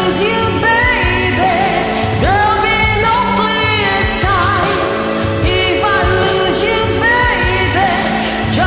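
Pop song with a lead voice singing a melody of long held notes, some with vibrato, over a continuous instrumental backing.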